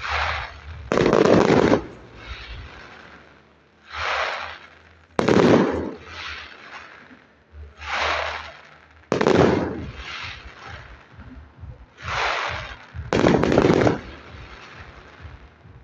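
Aerial fireworks going off in a regular rhythm: four times, about four seconds apart, a sharp report is followed about a second later by a louder bang.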